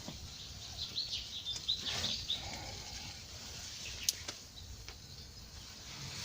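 Small birds chirping outdoors: a quick run of short, high chirps a second or two in, with a single sharp click around four seconds in.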